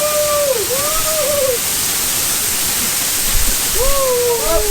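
Waterfall pouring steadily, a loud even rush of water. A few voices call out over it in the first second and a half and again near the end.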